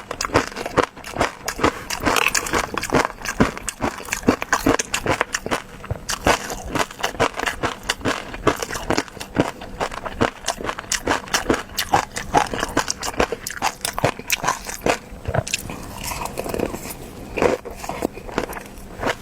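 Close-miked eating sounds of a person chewing food, with dense, irregular wet clicks and crackles throughout.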